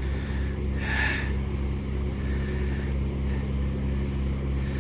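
Narrowboat diesel engine running steadily, a low even drone. A brief higher sound comes about a second in.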